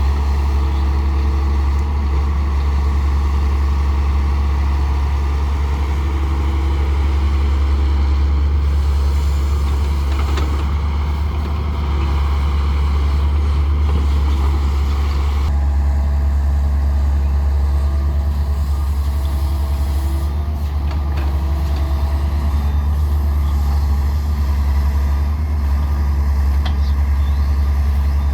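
Diesel engine of a Daewoo 170W-3 wheeled excavator running steadily, a deep unbroken drone.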